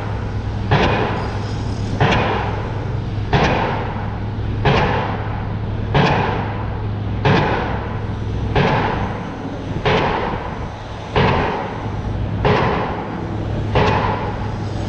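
Loud, regular heavy banging: about eleven hard impacts, one every 1.3 seconds or so, each ringing out before the next, over a steady low hum.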